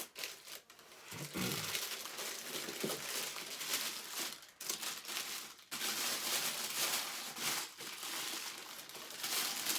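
Packaging being crinkled and handled: a dense, nearly continuous crackling with brief pauses, as wrapping is pulled off and worked around the statue pieces.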